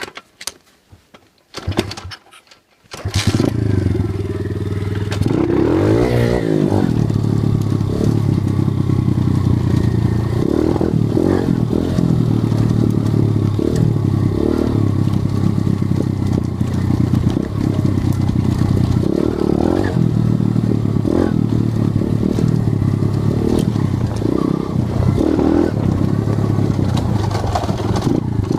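A 125 cc CRZ dirt bike engine: a few clicks and knocks, then it catches about three seconds in and keeps running, revved up and down repeatedly.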